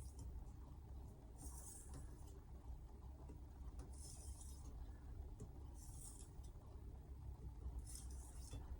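Knife blade stroked edge-first across a wet Altstone RIN whetstone, a short faint scrape about every two seconds, four strokes in all: edge-leading passes to take off the remaining burr. A low steady hum sits underneath.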